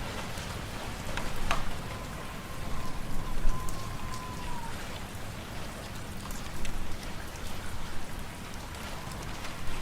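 Fireplace wood fire crackling, with scattered sharp pops over a steady hiss, under a low rumble of wind. A faint whistling tone, likely from the wind, comes in about a second and a half in and fades out before the middle.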